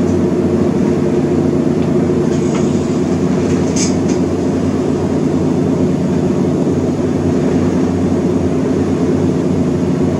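A steady machine hum with a low, even drone, holding level throughout, with a faint tick or two in the middle.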